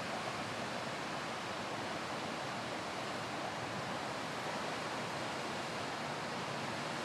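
Steady rushing of water pouring over a waterfall, an even hiss with no breaks.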